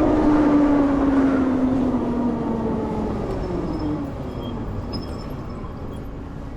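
Harley-Davidson LiveWire's electric motor whining, the whine falling steadily in pitch and fading over about three seconds as the bike slows, over wind and road rush.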